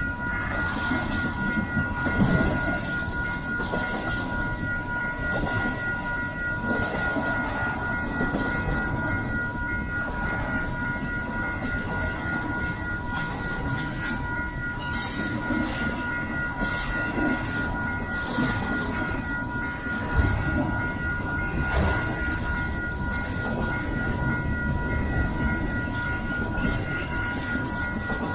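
Double-stack intermodal well cars rolling past, a steady rumble of steel wheels on rail with scattered clanks and knocks, two louder ones about 2 seconds and 20 seconds in. A steady high-pitched ringing tone runs underneath.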